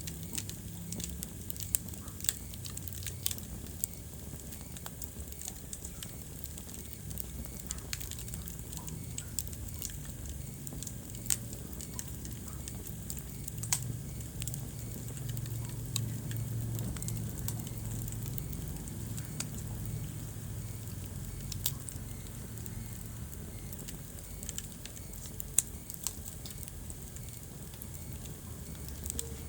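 Wood fire burning in a fireplace, crackling, with sharp pops at irregular intervals over a steady low rumble of the flames.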